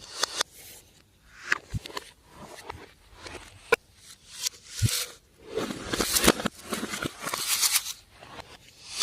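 Slime being kneaded and stretched by hand: irregular swells of sticky crackling and squishing, broken by sharp little clicks and pops.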